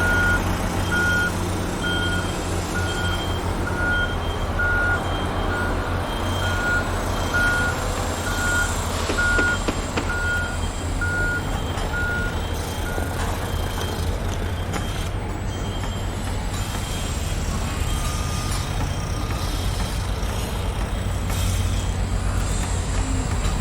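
Heavy construction vehicle's diesel engine running with a deep steady rumble, its reversing alarm beeping about twice a second; the beeping stops a little over halfway through while the engine carries on.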